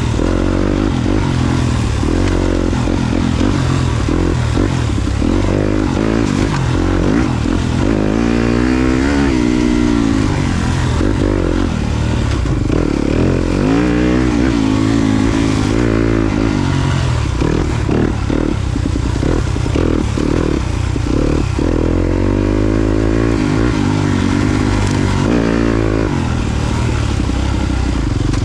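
Yamaha YZ250FX dirt bike's 250 cc four-stroke single-cylinder engine under way, its pitch rising and falling over and over as the throttle is opened and rolled off.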